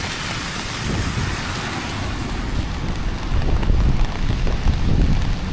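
Rain on a city street: an even hiss, swelling near the start, over a low rumble of wind on the microphone and traffic, with faint ticks of drops later on.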